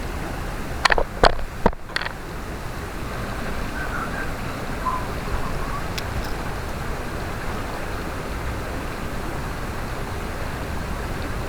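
Mountain stream rushing steadily, with four sharp knocks about a second into the sound.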